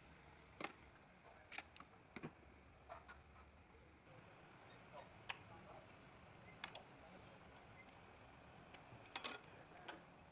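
Faint, irregular clicks and taps over near silence: about eight short ticks spread unevenly, with a quick double click a little before the end.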